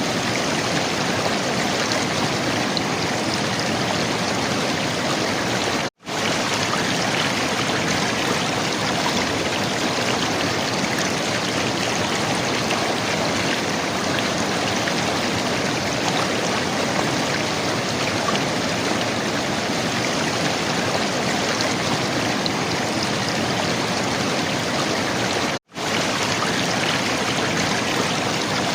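River water flowing and gurgling in a steady rush. The sound cuts out for an instant twice, about six seconds in and again near the end.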